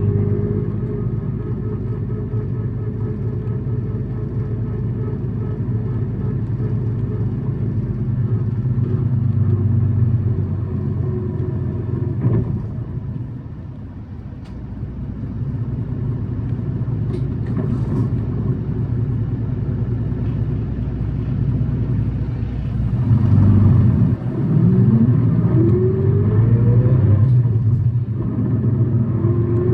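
Tokyu city bus running: a steady engine and drivetrain drone that eases off about halfway, then rises in pitch as the bus accelerates in the last few seconds, with a second rise at the very end. The uploader singles this bus out for its abnormal noise and high engine revs.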